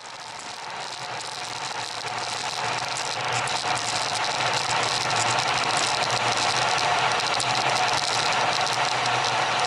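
Steady rumbling, rattling vehicle noise that fades in over the first few seconds and then holds steady.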